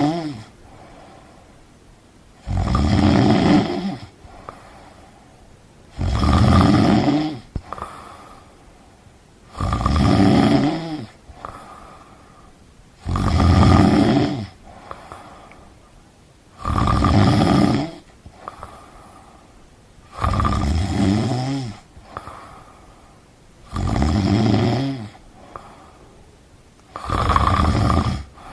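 Steady snoring, one long snore about every three and a half seconds, eight in all, with quiet breathing in between.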